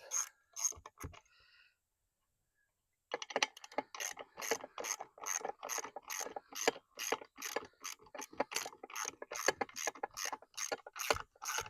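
Ratchet wrench clicking as bolts are undone on an outboard motor's lower unit: a few clicks, a pause of about two seconds, then steady quick strokes of about three to four clicks a second.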